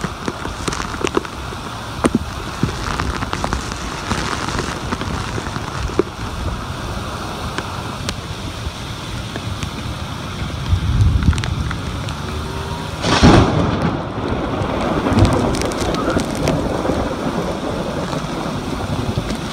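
Torrential downburst rain pouring in strong gusting wind, with scattered sharp ticks of drops hitting close by. A low rumbling swell comes a little past halfway, then a sudden loud burst about two-thirds of the way in.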